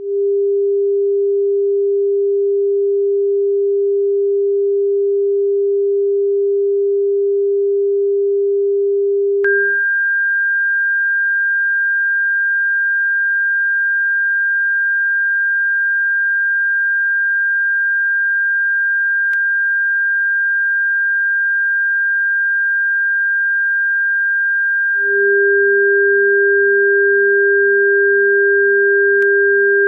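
Electronically generated pure sine tones of a bird-repellent sound track. A steady low tone sounds for about the first nine and a half seconds and then switches to a steady high whistle-like tone. The low tone joins it again near the end, so the two sound together.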